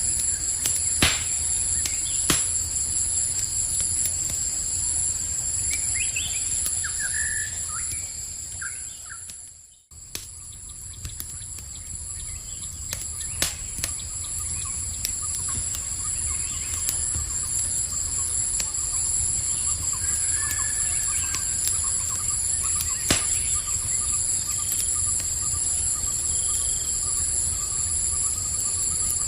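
Campfire crackling with a few sharp pops, over a steady high trilling of insects and a few brief bird chirps. The whole sound fades out and comes back in about ten seconds in.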